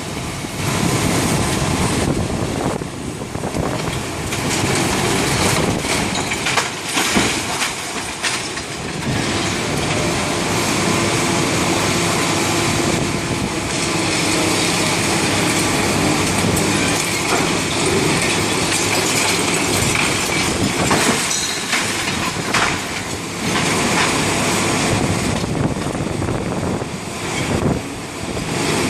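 Heavy demolition machinery breaking up a concrete building: continuous grinding and crunching, with scattered clanks and knocks of debris.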